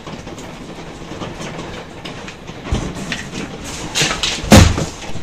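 Heavy rain drumming steadily on a balcony canopy, with a few knocks and one loud thump about four and a half seconds in.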